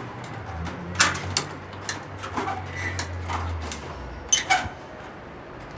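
Irregular sharp knocks and clicks from work on sheet metal, with the loudest about a second in and a close pair a little past four seconds. Under them runs a low steady hum that stops about three and a half seconds in.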